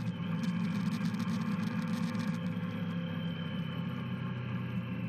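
Motorcycle engine idling steadily, its pitch holding level throughout.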